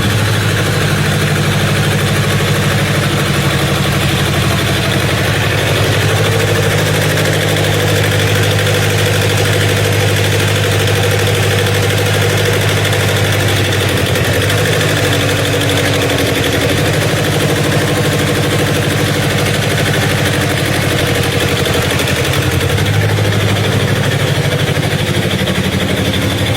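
Old tractor engine running steadily at idle, a low even engine note whose speed shifts slightly a couple of times.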